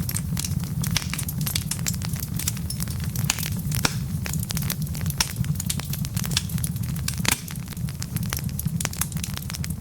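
Wood fire burning in a fireplace: a steady low rumble of flames with many sharp crackles and pops from the burning logs, one louder pop about seven seconds in.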